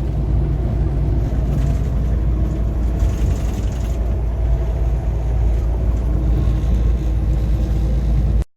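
Steady low rumble of a truck's engine and tyres on the road, heard from inside the cab while driving; it cuts off suddenly near the end.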